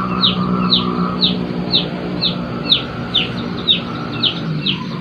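A bird calling with a short, high chirp that falls in pitch, repeated evenly about twice a second, over a steady background hum.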